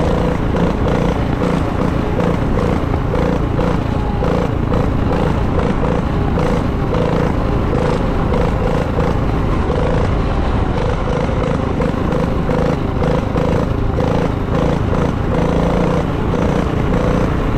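Minibike's small engine running at a fairly steady speed, loud.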